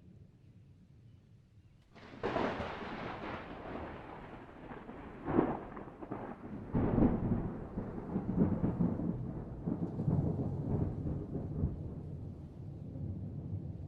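Thunder: a faint low rumble, then a sudden sharp crack about two seconds in, followed by rolling rumbles with further loud cracks around five and seven seconds in.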